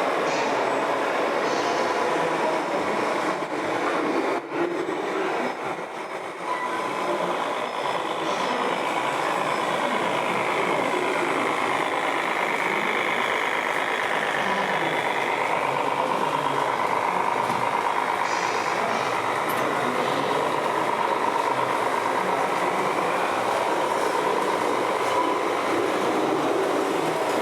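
Electric motors and gearboxes of radio-controlled model trucks whining over a steady mechanical rumble. In the middle the whines rise and then fall in pitch as the models speed up and slow down.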